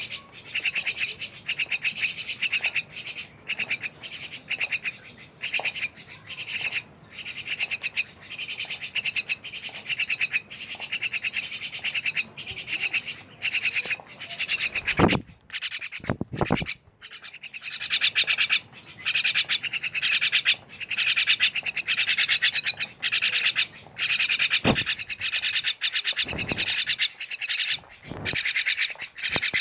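Starlings (jalak) calling noisily: a fast, harsh chatter of squawks and rattling notes that runs on with only short breaks. A few dull thumps come about halfway through and again later.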